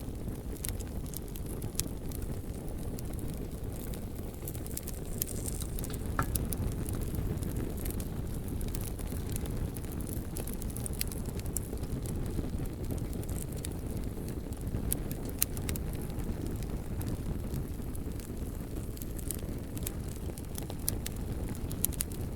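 Bonfire burning: a steady low rushing with scattered sharp crackles and pops from the burning wood.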